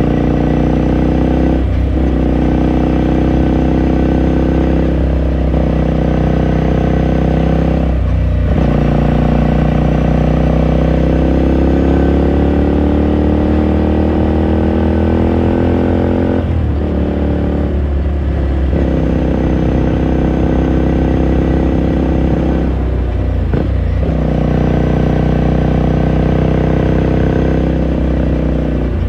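Ducati Scrambler Sixty2's air-cooled L-twin running on its raw exhaust under way, with its pitch climbing through the gears. It dips briefly at each of several gear changes, including one long, slow pull in the middle.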